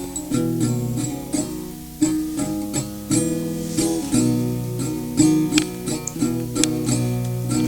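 Acoustic guitar strumming chords in a steady rhythm, an instrumental passage of a rock song cover.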